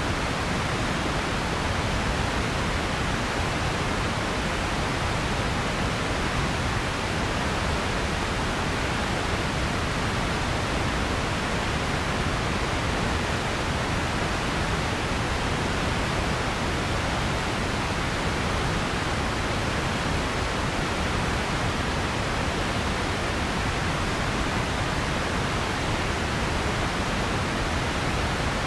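Steady generated noise: an even, unchanging hiss, somewhat stronger in the lows and mids than in the highs.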